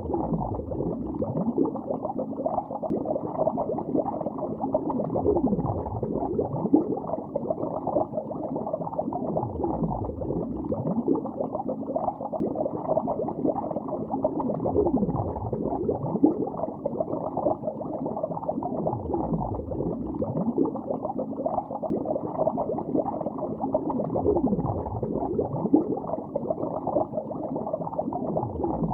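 Bubbles streaming through water, heard underwater: dense, steady bubbling and gurgling, muffled, with no high sounds. A deeper swell comes round about every four to five seconds.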